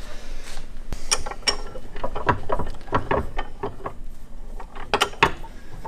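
Irregular metallic clicks and knocks of motorcycle fork parts being handled and fitted together.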